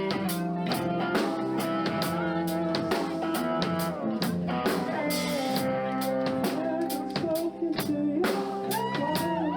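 A live rock band playing a slow song: steady drum kit beat under held guitar chords. A voice starts singing near the end.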